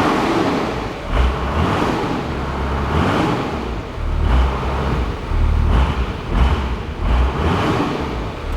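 Toyota 12H-T inline-six turbo diesel engine of a Land Cruiser HJ61 running just after being started, with a steady low rumble and no misfire the owner points out: it runs well without smoke.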